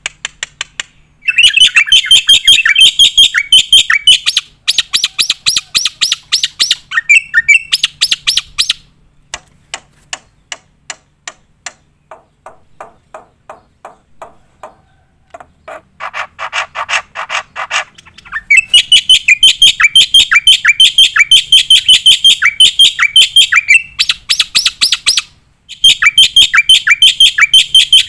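Black-winged myna singing hard in long rapid-fire strings of loud, sharp repeated notes, many a second. The strings are broken by short pauses, and in the middle there is a softer stretch of sparse clicking notes.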